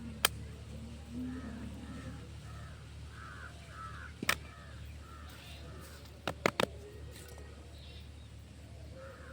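A bird gives a rapid series of short harsh calls, several a second, fading out in the later part. Sharp knocks break in once early, once near the middle and three in quick succession about six and a half seconds in, the loudest sounds present.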